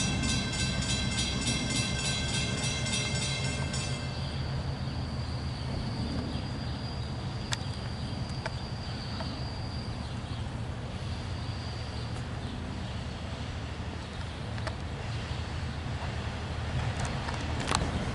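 Long Island Rail Road diesel train (DE30AC/DM30AC locomotive with C3 coaches) approaching the station: a steady low engine and rail rumble, with a thin high squeal from about four to ten seconds in and a few sharp clicks. A set of steady ringing tones cuts off about four seconds in.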